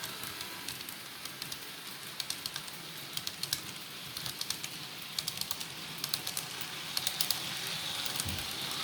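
HO scale model train wheels clicking over rail joints: irregular clusters of sharp little ticks over a steady hiss.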